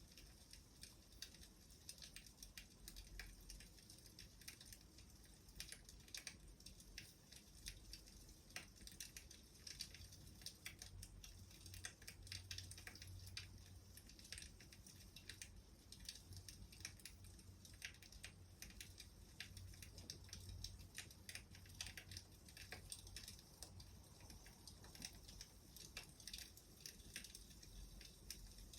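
Faint crackling of a wood fire: irregular small pops and snaps of burning firewood, with a low hum beneath.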